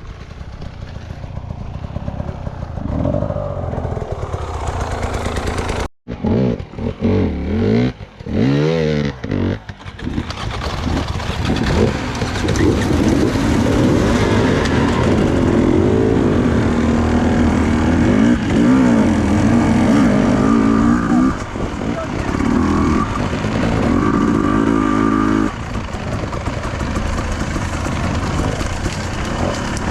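Enduro motorcycle engine running under constantly changing throttle, revving up and dropping back again and again. The sound drops out briefly about six seconds in.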